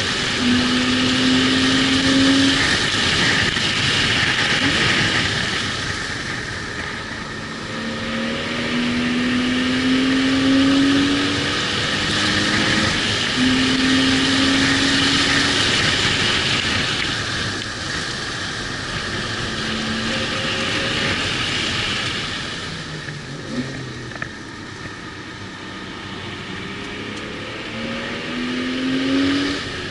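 Car engine at speed on a road course, heard from inside the cabin. It pulls with rising pitch, then backs off with falling pitch, several times over, under a steady rush of wind and tyre noise.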